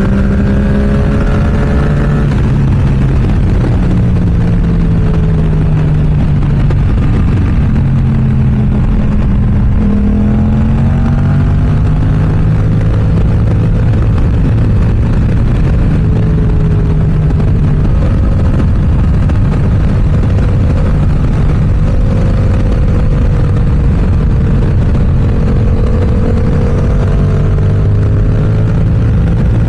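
Yamaha R7's parallel-twin engine through an M4 aftermarket exhaust, running under way with wind rush on the microphone; the engine note drops a few seconds in, then climbs again around ten seconds in as the rider gets back on the throttle, and holds fairly steady through the rest.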